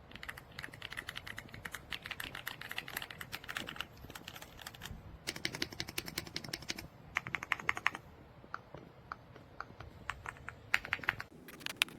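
Typing on the EPOMAKER x Aula F75 gasket-mount mechanical keyboard: bursts of rapid keystroke clicks with short breaks between them. The keystrokes turn sparser after about eight seconds, with one last quick run near the end.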